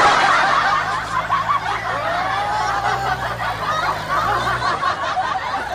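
Several people laughing and snickering together over a low steady hum; the hum stops near the end.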